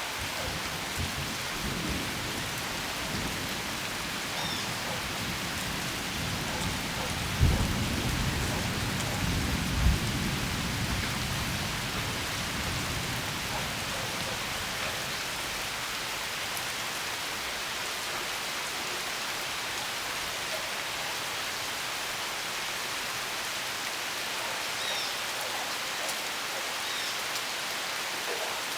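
Steady rain falling in a tropical storm, with a low rumble of thunder about seven to eleven seconds in that peaks sharply twice. A few faint high chirps sound now and then over the rain.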